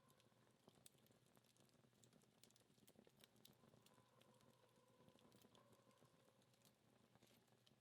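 Faint crackling of a dying wood fire: sparse small pops and ticks from the embers.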